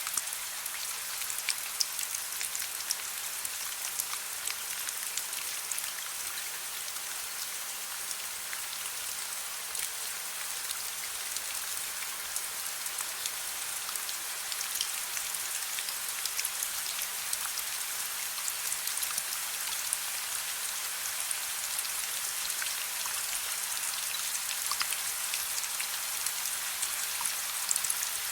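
Steady soft rain: a continuous hiss of falling rain with many small individual drop taps scattered through it.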